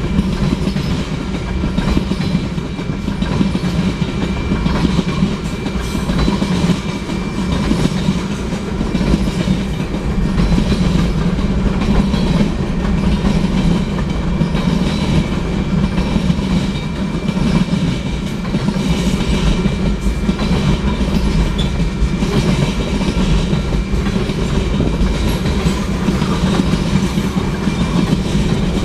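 Freight cars of a Union Pacific manifest train rolling past at track speed: a steady rumble of steel wheels on rail, with a run of clicks as the wheels cross rail joints.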